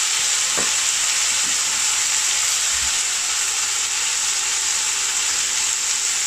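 Chicken shashlik skewers sizzling steadily in a hot ridged cast-iron grill pan, basted with butter ghee.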